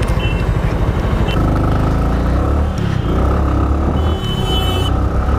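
Motorcycle engine running while riding along a road. A short high tone sounds near the end.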